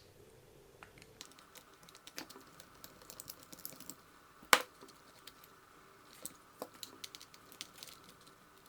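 Small scattered clicks and taps of hand tools on the plastic and metal parts of a WLToys 144001 RC buggy being dismantled, with one sharper click about four and a half seconds in. A faint steady high hum runs underneath from about a second in.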